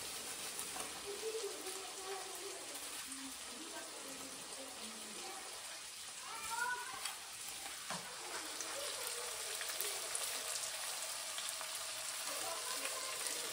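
Minced local chicken frying in a steel wok on the stove: a steady, light sizzle.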